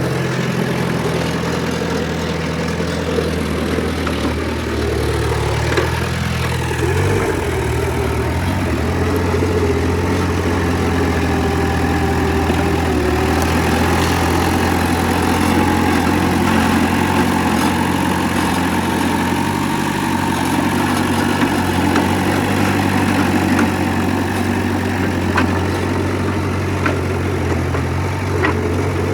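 Diesel engine of heavy earthmoving machinery, a bulldozer or dump truck, running steadily at a low, even pitch.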